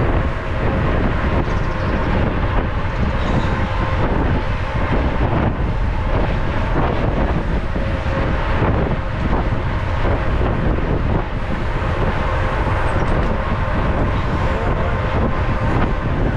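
Steady wind rush on the microphone of a camera riding on a mountain bike at speed, mixed with the bike's rolling noise over the trail.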